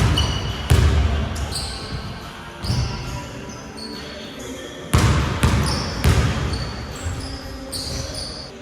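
A basketball bouncing hard on a gym floor in irregular, echoing thumps, with short high squeaks from sneakers between them.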